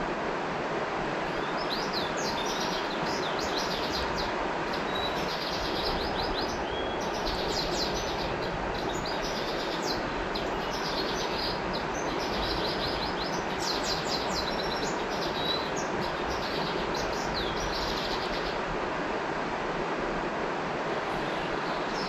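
River water flowing steadily, with a bird singing quick, high chirps over it from about a second and a half in, stopping a few seconds before the end.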